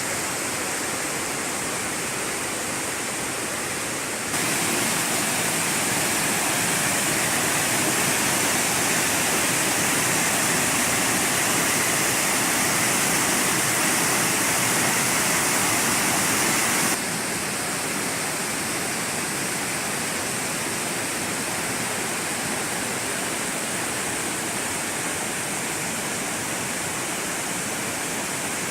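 Waterfall and stream water rushing in a steady hiss, louder for a stretch from about 4 s to 17 s in, with sudden changes in level at each end.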